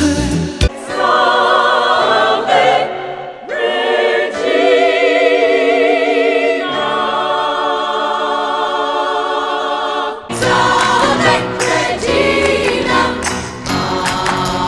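Background music: a choir singing long, wavering notes with no accompaniment at first, then a fuller backing with low notes and a beat comes in about ten seconds in.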